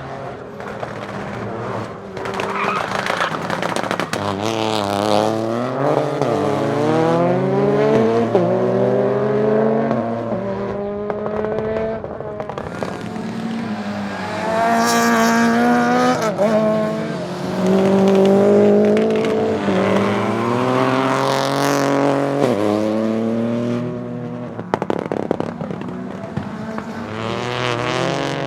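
Peugeot 208 Rally4's 1.2-litre turbocharged three-cylinder engine driven hard, revs climbing and then dropping sharply again and again through the gear changes. A few sharp exhaust cracks come near the end.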